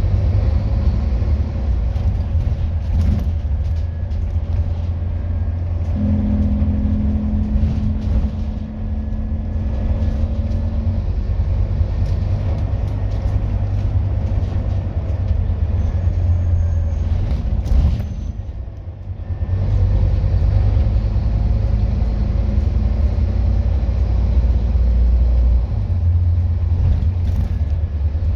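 Scania N230UD double-decker bus's diesel engine running with a deep, steady rumble. A steady hum rides over it from about six to eleven seconds in, and the rumble dips briefly about two-thirds of the way through before picking up again.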